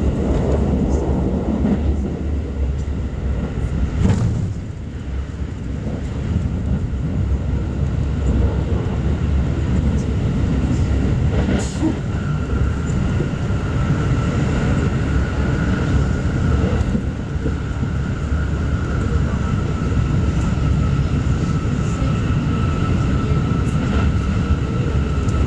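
Keikyu express commuter train running at speed, heard from inside the carriage: a steady rumble of wheels on the track. A thin high whine comes in about halfway through, and there are a couple of sharp clicks.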